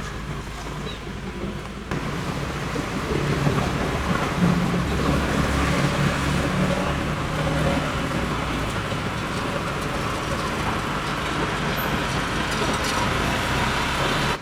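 Pressure washer spraying water onto a car, a steady hiss of spray over the low hum of the washer's pump, growing louder about two seconds in.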